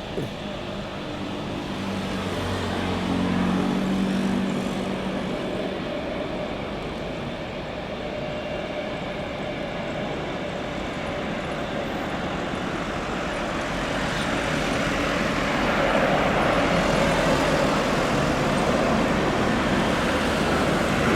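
Continuous vehicle noise, with something passing about three seconds in, then a steady swell from about fourteen seconds in, in keeping with a jet airliner approaching to land over background road traffic.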